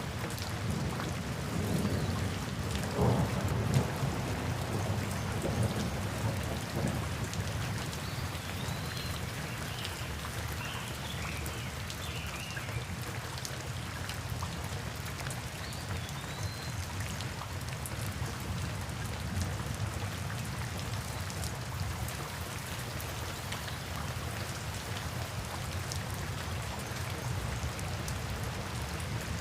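Steady heavy rain falling, with a low rumble underneath that swells about three seconds in. A few faint, short high chirps come through in the middle.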